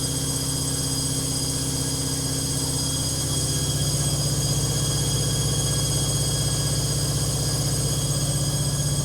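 Logik washing machine on its final spin with a badly unbalanced load: the motor whines steadily while the drum and cabinet knock and rattle rapidly, getting a little louder about three and a half seconds in.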